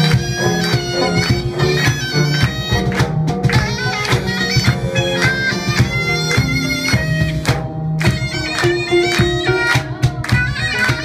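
Korean traditional music played live by an ensemble: a loud, reedy wind instrument carries an ornamented melody over steady drum strokes.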